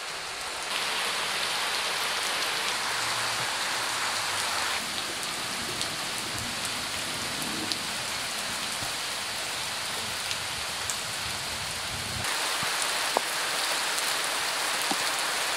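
Heavy rain falling, a steady hiss with a few scattered drip clicks; the hiss changes abruptly in tone a few times.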